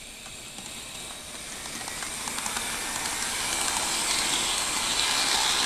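HO scale model locomotives, an Athearn EMD GP50 and a second engine, running on the track: a motor and wheel whir with light clicking, growing steadily louder as they approach.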